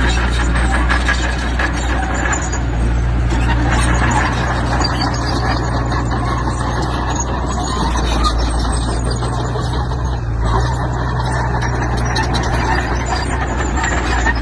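Diesel engine of heavy earthmoving machinery running steadily under load, with high metallic squealing and clattering over the engine drone.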